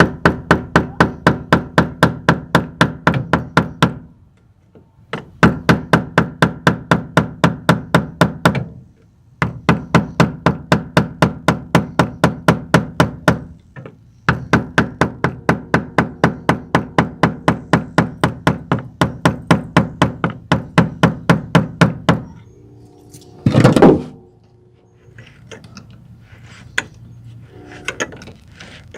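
Hammer tapping a flathead screwdriver to turn the plastic lock ring of a fuel pump module on a fuel tank: rapid, evenly spaced, ringing metal taps at about five a second, in four runs with short pauses. Near the end there is one louder clatter, then a few quieter knocks of handling.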